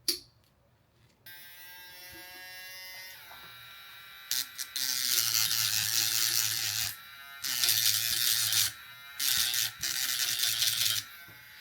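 A sharp click, then a small rotary sanding tool starts and runs with a steady whine. It grinds loudly three times, a second or two each, as it scrubs rust off the kettle switch's steel contacts.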